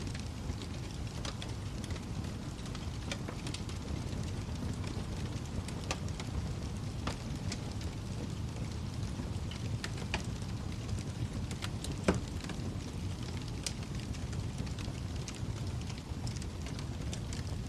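Wood fire crackling in a fireplace: a steady low rumble of flames with scattered pops and snaps, and one louder pop about twelve seconds in.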